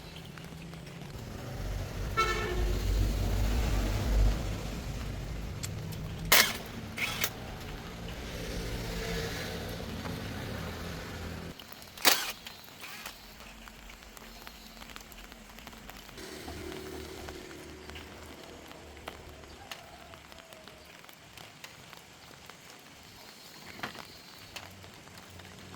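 Car engine running, with a short horn toot about two seconds in and a few sharp knocks; the engine cuts off about halfway through.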